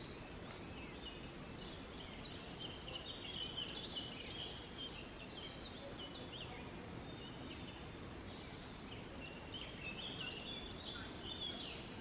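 Several small songbirds chirping and twittering in quick, high, overlapping notes, busiest in the first few seconds and again near the end, over a steady low background rumble.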